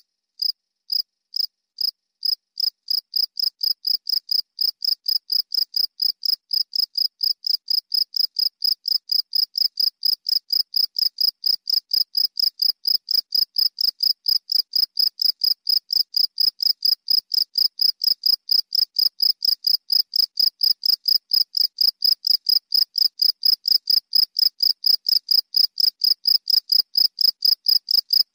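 A cricket chirping: one clear, high chirp repeated at an even pace, a little slower in the first couple of seconds, then about three chirps a second.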